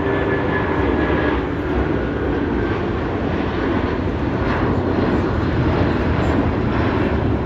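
Jet airliner engines passing close, a loud, steady rush of noise; a high whine and lower tones in it fade out about a second and a half in.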